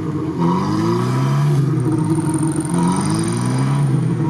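IZH-2125 Kombi's engine revving in repeated long rising pulls, about three, each a second or more, as the car is rocked to free it from deep mud where it is stuck. A thin high whine runs along in the second half.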